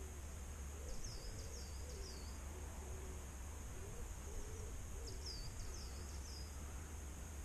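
Dawn birdsong: a low, wavering cooing call repeats through most of the clip. Twice, a small bird adds a quick run of about four short high chirps that fall in pitch, about a second in and again about five seconds in.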